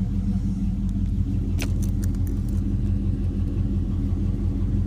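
2000 Camaro Z28's LS1 V8 engine idling steadily with an even, low rumble. A few short sharp clicks come about one and a half to two and a half seconds in.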